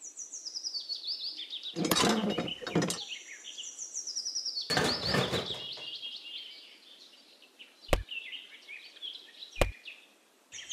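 Small birds chirping in quick stepped-down series, with two short noisy bursts in the first half and two sharp clicks near the end.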